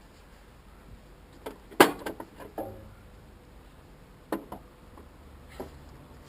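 Scattered knocks and clinks of tools and parts being moved about while searching for a misplaced bolt. The loudest knock comes about two seconds in, then a quick cluster, with a few lighter ones later.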